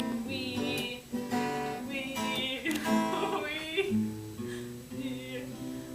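A song's instrumental passage led by strummed acoustic guitar.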